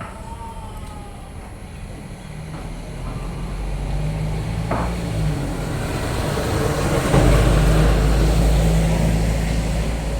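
A motor vehicle's engine running and growing steadily louder as it draws near, loudest over the last few seconds, with a single sharp click about halfway through.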